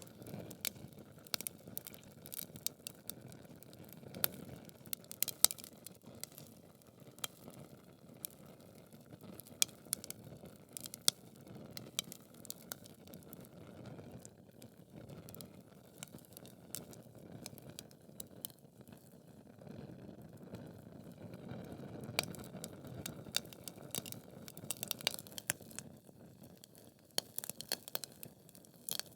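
Wood fire in a fireplace crackling: logs burning with a steady low rustle of flames and frequent sharp, irregular pops and snaps.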